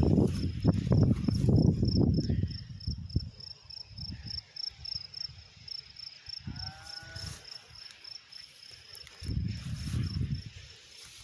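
A cricket chirping in a steady, even pulse, about five chirps a second, under low rumbling noise on the microphone near the start and again near the end.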